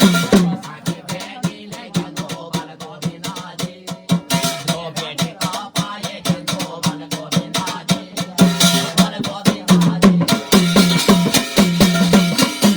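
Instrumental interlude of Garhwali jagar folk music: quick, regular drum strokes, lighter and sparser through the middle, with sustained pitched tones coming back fuller about eight and a half seconds in.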